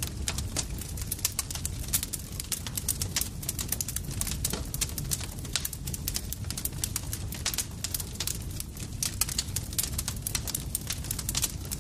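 Campfire crackling: a dense, irregular run of small sharp pops and snaps from the burning wood over a steady low rumble of the flames.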